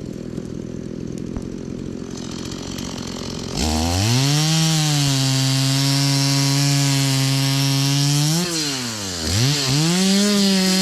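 Two-stroke chainsaw running low for the first few seconds, then throttled up about three and a half seconds in to a high steady whine. The revs dip and recover twice near the end, as when the chain bites into a log.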